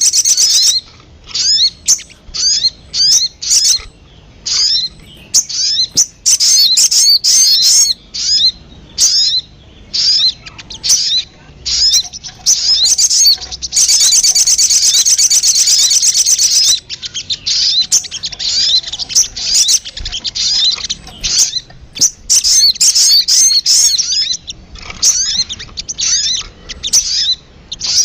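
Sogon (little spiderhunter) lure-call recording: a run of sharp, high chirps with short gaps between them. It opens with a brief rapid trill, and about halfway through there is a denser rapid trill lasting about three seconds.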